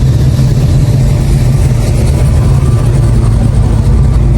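Loud, steady low rumble of an engine running, with no change in pitch.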